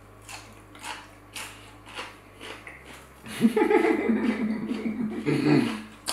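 Close-miked mouth sounds of someone chewing spicy chicken wings suya, with short wet smacks about twice a second. About three and a half seconds in, a loud drawn-out voiced sound from the eater lasts about two and a half seconds.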